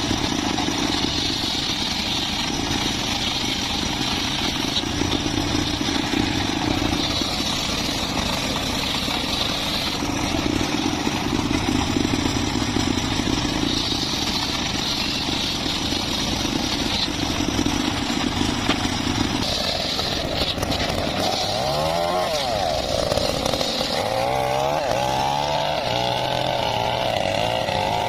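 Small petrol engine of a wood saw running steadily, its tone shifting every few seconds. About 20 seconds in it revs up and down, then holds at higher revs.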